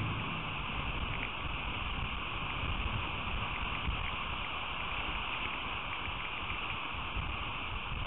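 Steady rain falling, a constant hiss with faint scattered drop ticks, and low buffeting from wind on the microphone.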